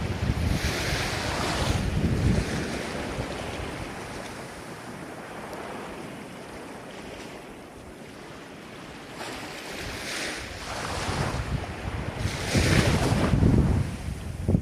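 Ocean waves breaking and washing on the shore, loud surges near the start and again near the end with a quieter lull between, with wind buffeting the microphone.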